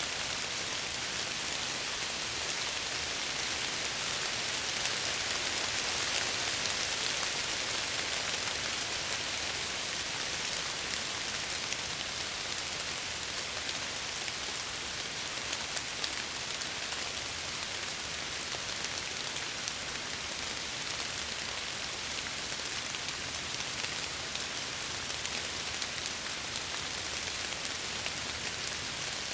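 Steady rain falling against window glass: an even hiss with fine scattered drop ticks, swelling slightly a few seconds in.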